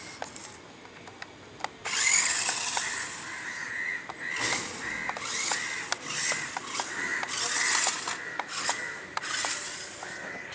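Small electric motor of a 1/12-scale RC rock crawler truck whining in repeated surges as it drives, starting about two seconds in, with sharp clicks throughout.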